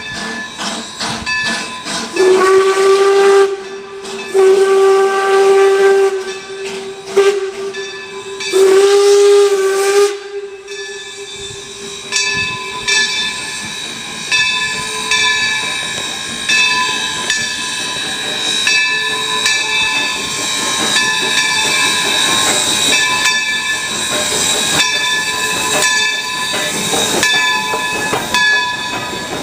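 Steam locomotive whistle sounding three blasts over hissing steam, the middle blast the longest. It is followed by a steady steam hiss with a regular beat of about one stroke a second.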